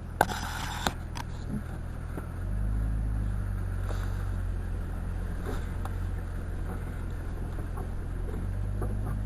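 Jeep engine running under load during a turnaround, getting louder from about two and a half seconds in, with faint creaks from the worn, creaky front end. Two sharp knocks in the first second.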